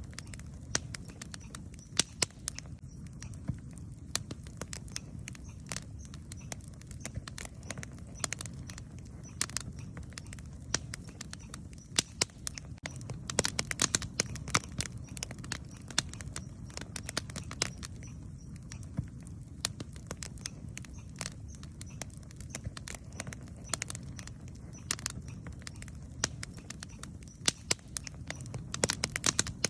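Campfire burning wood, crackling with frequent sharp pops and snaps over a steady low rumble of the flames.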